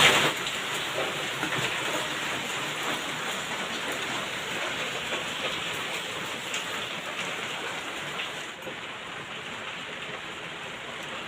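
Heavy rain falling steadily, an even hiss with scattered drop ticks that eases slightly near the end.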